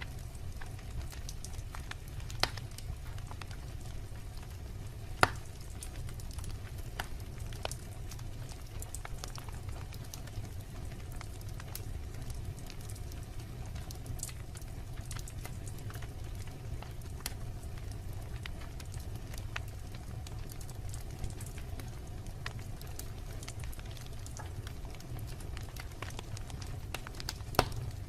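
Logs burning in a fireplace, crackling with scattered small pops over a steady low rumble, with louder snaps about two and a half seconds in, about five seconds in, and near the end.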